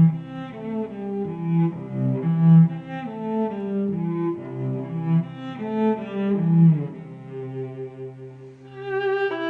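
Background music: a cello playing a slow melody of held notes, with higher strings joining near the end.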